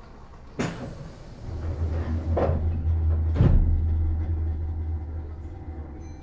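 Meitetsu 6000 series commuter train: its doors shut with a sharp thud, then the train moves off, a low rumble building with two heavy clunks from the carriage as it starts.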